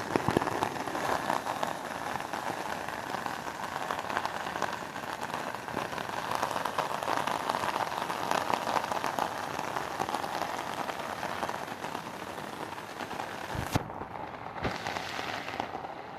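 Steady rain falling and pattering on surfaces, a dense crackling hiss; near the end it goes muffled for about two seconds.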